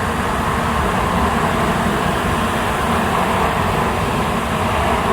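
Steady rumble and hiss of a Shinkansen train at a station platform, with no sudden sounds.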